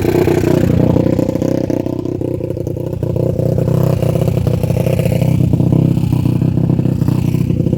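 Suzuki RM-Z250 dirt bike's single-cylinder four-stroke engine running with the choke on just after a cold start, its revs dipping slightly about half a second in and then holding steady as it warms up.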